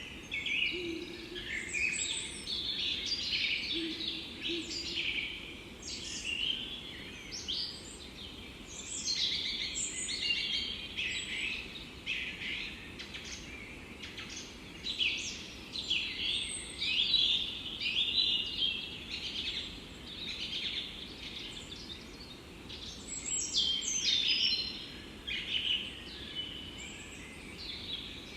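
Several songbirds singing and chirping over each other, with quick, repeated, high-pitched phrases throughout, over a soft steady hiss of forest background.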